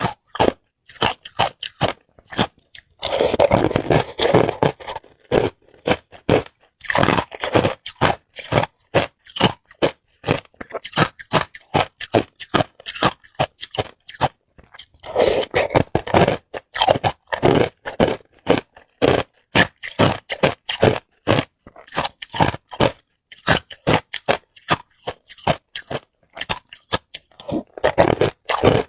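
A person biting and chewing hard ice cubes close to the microphone: a steady run of sharp crunches and cracks, with heavier bursts of crunching about three, seven and fifteen seconds in.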